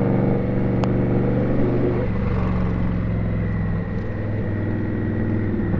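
Indian Scout's V-twin engine running at low revs in slow traffic, its steady note easing down slightly about two seconds in and shifting again near four seconds.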